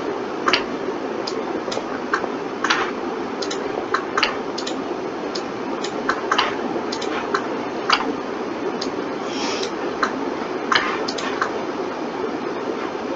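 Irregular clicks of a computer mouse and keyboard, roughly one or two a second, over a steady background hum.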